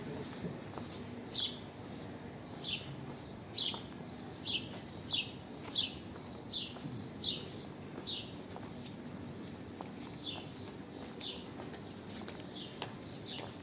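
A small bird chirping over and over, each chirp a short falling note, over a steady low background hum.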